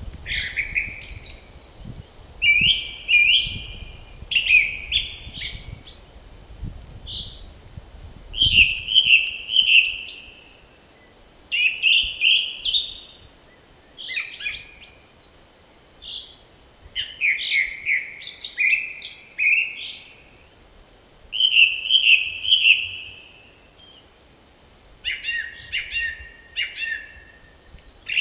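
Spring songbirds singing short, repeated phrases every second or two, with brief pauses between them. Gusts of wind rumble on the microphone through roughly the first third.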